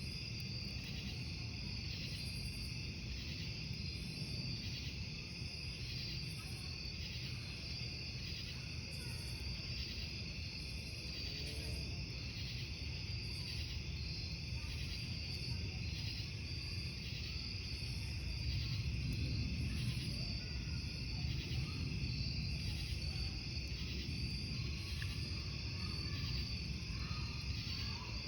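Crickets chirping in a steady, evenly pulsing chorus, over the low noise and occasional faint crackle of a burning wood campfire.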